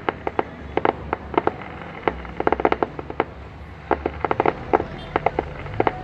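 Fireworks display going off: many sharp cracks and pops in irregular rapid clusters, with short gaps between the volleys.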